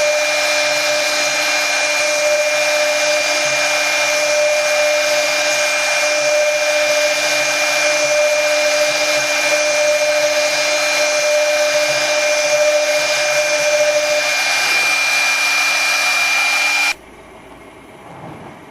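Brushless spindle of a CNC router running at high speed: a steady high whine over a loud hiss of air. One of the tones fades out about three-quarters of the way through, and the whole sound cuts off suddenly near the end.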